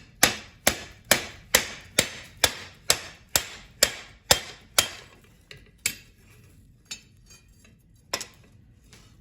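Hand hammer striking hot ½-inch square steel bar on an anvil, closing the forged bend around an inserted piece of stock: about a dozen evenly spaced blows, roughly two a second, each with a short metallic ring, then three slower, scattered blows.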